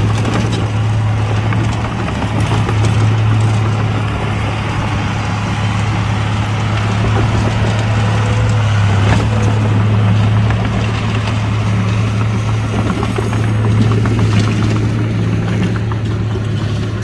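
Heavy earthmoving machine's diesel engine running steadily under load, a loud, unbroken low hum.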